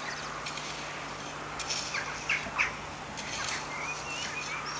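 Outdoor ambience with small birds chirping now and then, short high calls scattered through, over a steady low hum.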